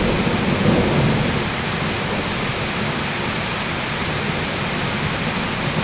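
Heavy rain falling as a steady hiss, with a low thunder rumble during the first second or so that then fades.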